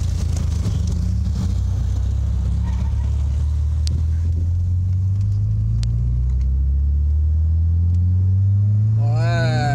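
Citroën CX's engine heard from inside the cabin, pulling steadily under acceleration with its pitch climbing over the second half, over road and tyre noise.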